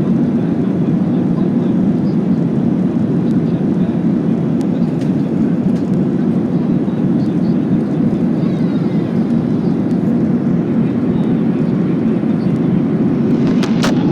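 Steady cabin roar of a Boeing 737-800 climbing, its engines and airflow making an even low rumble, with a couple of brief clicks near the end.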